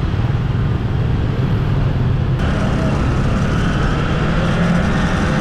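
Motorcycle on the move: a steady road and engine rumble under heavy wind noise on the microphone. The sound changes abruptly about two and a half seconds in.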